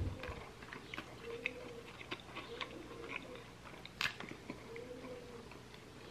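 A person chewing a mouthful of crispy chicken burger, faint moist mouth sounds with scattered small clicks and crunches, one sharper click about four seconds in.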